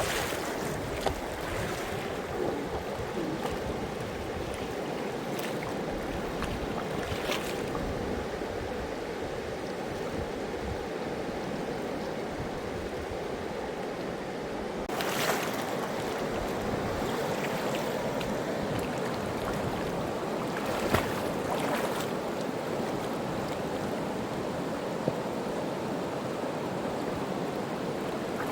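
Fast-flowing mountain river rushing steadily, with a few brief sharp sounds in the water noise, the strongest about halfway through.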